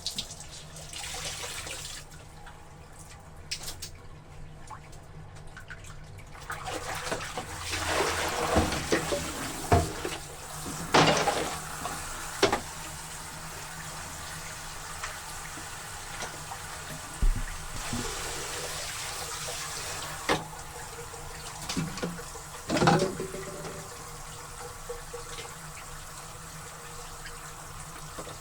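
Water running from a tap into a basin of laundry, with several sloshing splashes as the wet clothes are worked, loudest in the middle of the stretch and again briefly later on.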